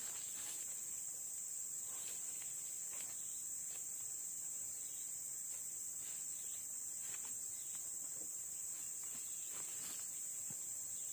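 A steady, high-pitched insect chorus drones without a break, with faint scattered rustles beneath it.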